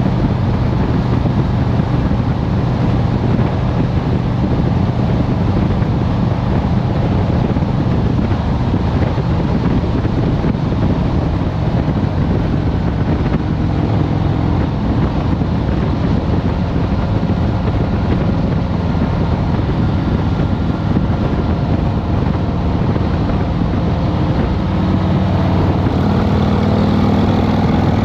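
2023 Harley-Davidson Road Glide Special's Milwaukee-Eight 114 V-twin running under way, with steady wind rush on the helmet-mounted microphone. The engine note rises and gets a little louder near the end as the bike speeds up.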